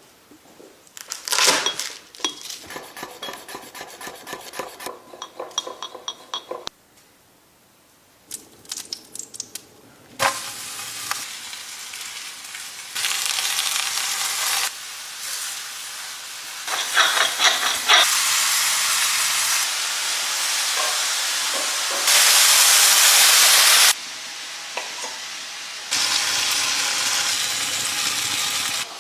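Food sizzling in a hot frying pan and being stirred, with clinks and scrapes of utensils in the first few seconds. The sizzle comes in several cut-together stretches that start and stop abruptly, loudest about three quarters of the way through.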